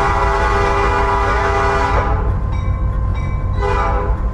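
Locomotive air horn sounding a chord from inside the cab of a GP38-2 diesel: a long blast that cuts off about two seconds in, then a short blast near the end, over the steady low rumble of the locomotive.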